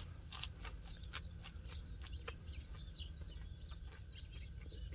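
A person chewing a leafy, lettuce-wrapped mouthful with the mouth closed, heard close up as soft, irregular clicks and smacks.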